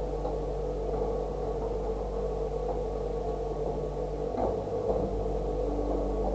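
A steady hum made of several held tones, with a brief knock about four and a half seconds in.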